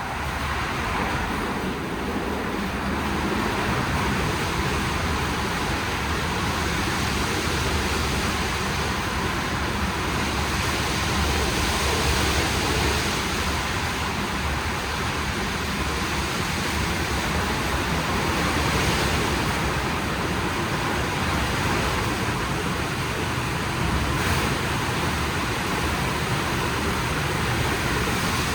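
WashTec SoftCare² Takt rollover car wash running, with a steady rushing of water spray.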